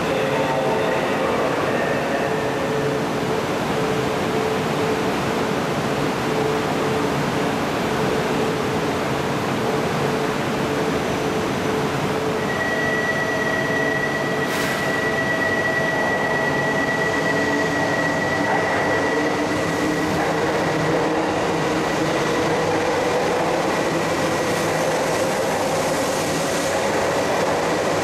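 JR East 200 series Shinkansen train standing at the platform with a steady machinery hum, then pulling out, its motor whine rising in pitch as it gathers speed in the last several seconds. A steady high tone sounds for several seconds near the middle.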